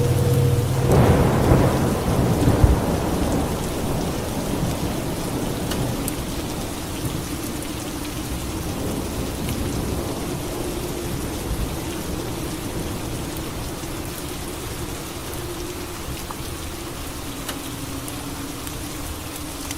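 Steady rain with a thunderclap about a second in, its rumble fading away over the following several seconds.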